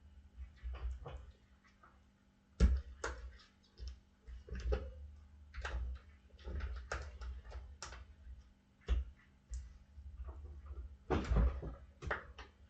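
Irregular metal clicks and knocks of tire irons and clamps against a dirt bike wheel rim while a tire is worked onto it. There is a sharp strike about 3 s in and a cluster of knocks near the end.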